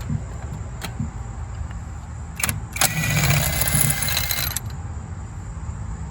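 Socket wrench on a 16 mm spark plug socket breaking a spark plug loose: a couple of sharp metal clicks, then a rasping metal noise lasting nearly two seconds as the wrench is worked.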